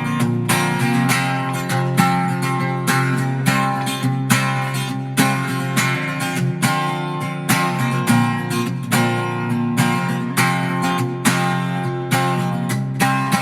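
Acoustic guitar strummed in a steady rhythm, chords ringing between the strokes: an instrumental passage with no singing.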